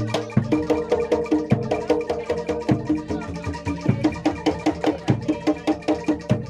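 Live Javanese gamelan music accompanying a kuda lumping dance: rapid pitched percussion strokes over a deep drum hit about every second.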